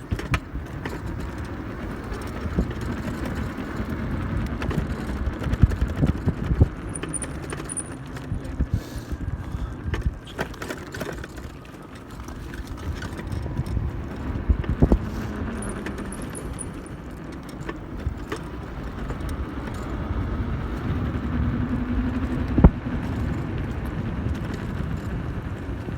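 1500 W electric hub-motor pit bike being ridden. There is a steady rumble of wind and road noise, with frequent knocks and rattles from the bike over bumps.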